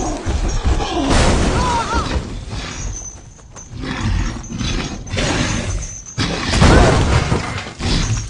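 Film action-scene sound effects: loud crashing and smashing in three long bursts with short lulls between them.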